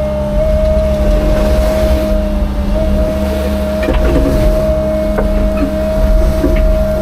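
Heavy construction machine's engine running steadily, with a constant high whine over the low engine hum and a few light knocks about halfway through.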